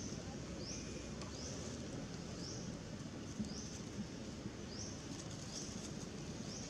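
A bird repeating a short, high call that rises in pitch, about once a second, over a steady low background rumble.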